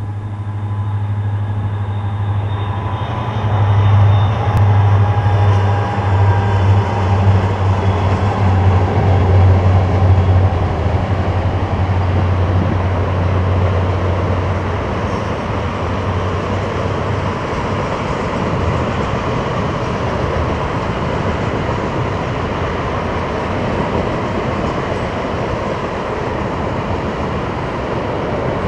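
Two EMD SD40-2 diesel locomotives, 16-cylinder two-stroke engines, running with a deep steady drone as they pull the train past, loudest a few seconds in. The drone fades out after about sixteen seconds, leaving the steady noise of loaded tank cars rolling across a steel truss bridge.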